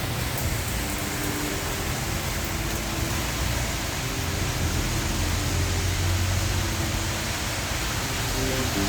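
Heavy rain falling steadily, a dense even hiss, with a low rumble through the middle.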